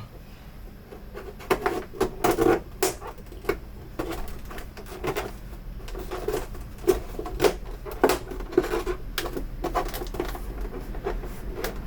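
Plastic parts of a Samsung U32J590UQU monitor's housing being handled and pressed together during reassembly: a run of irregular clicks and knocks, some sharp and loud, with handling noise in between.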